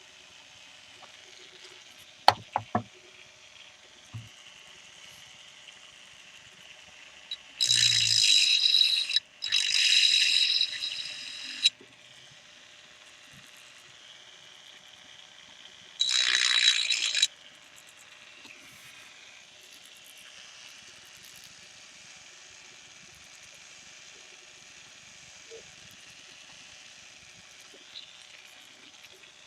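Small high-speed rotary tool with a mounted grinding point, run in three short bursts of hissing, high-pitched grinding. A few sharp clicks come before the first burst.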